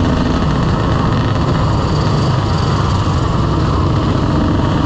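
Motorcycle engine running steadily, mixed with a steady rush of road and wind noise.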